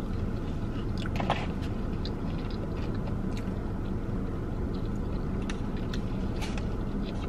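Close-up chewing of a fried chicken finger, with small wet mouth clicks now and then, over a steady low hum of the car cabin.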